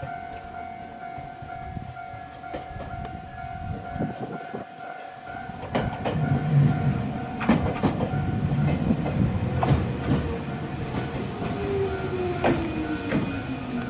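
Jōmō Electric Railway 700-series train (car 723) pulling into a station: the rumble and clacking of wheels over rail joints starts about six seconds in, and a whine falls steadily in pitch as the train slows. Before it arrives, a steady level-crossing warning tone sounds for the first few seconds.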